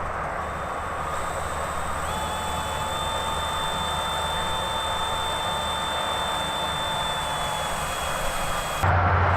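Steady engine drone with a thin high whine held over it for several seconds. Just before the end it changes abruptly to a louder, lower hum.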